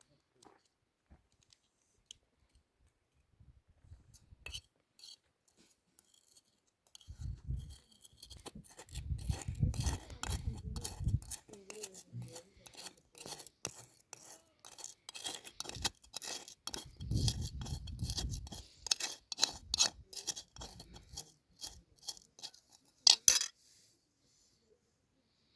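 Hand work with kitchen things: a long run of quick scraping and clicking strokes with light clinks, broken by a few dull thumps.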